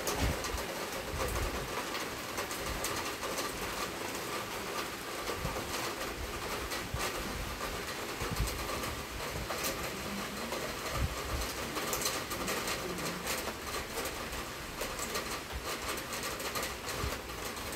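Heavy rain pouring steadily, a dense patter of drops close by. A few low gusts of wind rumble on the microphone near the start and again about halfway through.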